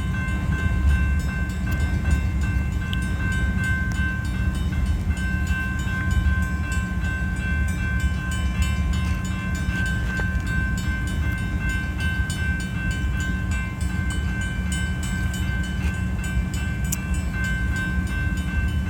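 Freight train cars rolling slowly past with a steady low rumble, while the grade-crossing signal bells ring on without a break.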